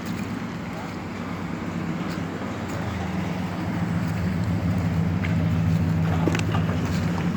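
Car engine and road noise heard from inside a moving car: a steady low hum that grows a little louder about halfway through, with a few light clicks near the end.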